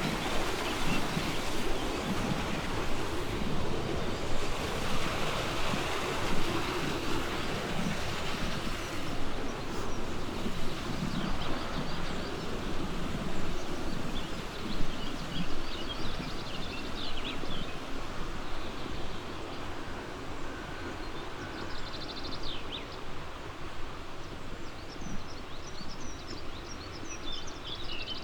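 Steady rushing of a flowing river, easing a little in the second half. Small birds chirp over it from about halfway through.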